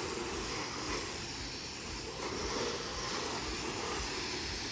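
Water spraying steadily from a hose, rinsing down a car.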